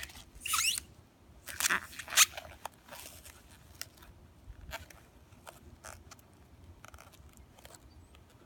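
Latex 260 modelling balloon squeaking and rubbing as its end is tied off in a knot. There is a wavering squeak about half a second in, sharp squeaks and snaps around two seconds in, then faint scattered rubbing and clicks.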